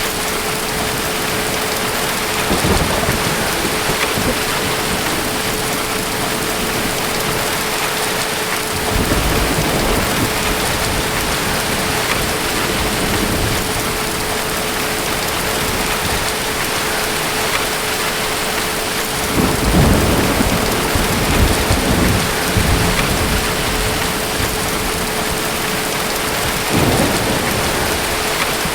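Steady heavy rain with distant thunder. Low rumbles come and go four times, the longest and loudest about twenty seconds in.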